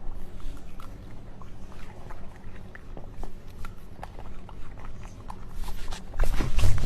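A dog moving about in a small room: scattered light clicks and knocks over a low hum, with louder thumps and scuffling about six seconds in.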